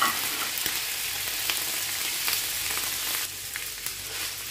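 Raw boneless chicken pieces sizzling in hot oil and butter in a frying pan, with small crackles throughout and a wooden spatula stirring them. The sizzle eases a little about three seconds in.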